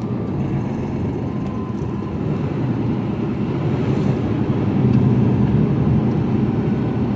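Mercedes-Benz Actros lorry's diesel engine and road noise heard inside the cab: a steady low rumble that gets a little louder about five seconds in.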